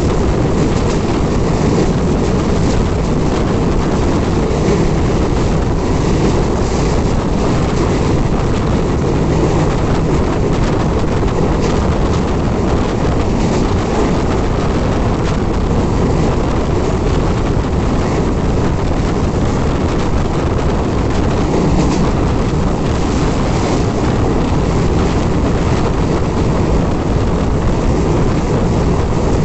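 A moving train's steady rumble, with wind buffeting the microphone.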